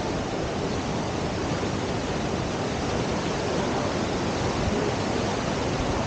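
Steady rush of whitewater pouring through a standing river surf wave, an even noise with no breaks.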